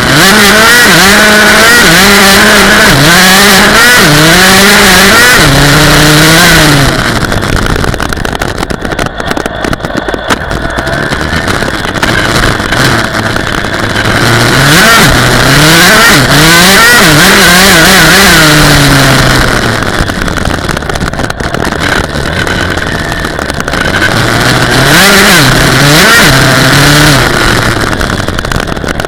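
Dirt bike engine revving as it is ridden, its pitch climbing and dropping over and over. It runs very loud in three stretches, easing off in between.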